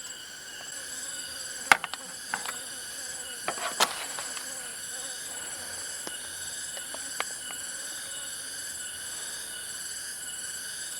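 A forest chorus of insects trilling and chirping steadily at several high pitches, one of them in a rapid pulsing chirp. A few sharp clicks or knocks come between about one and a half and four seconds in, and one more near seven seconds.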